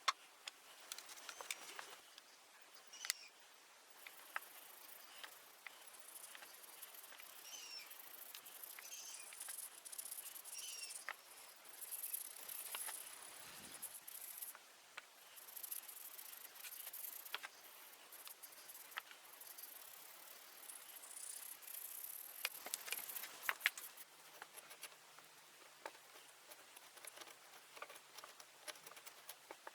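Electric arc welding: an uneven crackling hiss with many sharp pops and clicks.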